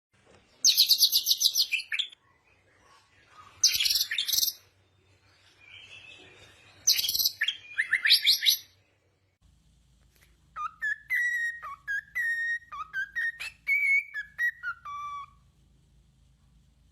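Birds calling: three bursts of rapid, very high-pitched chirping trills, then after about ten seconds a run of clear whistled notes that slide up and down in pitch.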